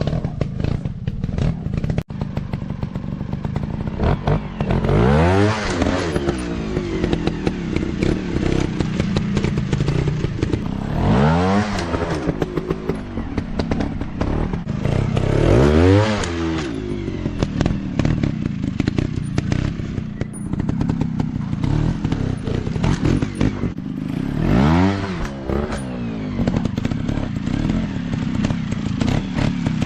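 Dirt bike engines running with the throttle opened and closed, revving up and back down about four times over a steady engine drone.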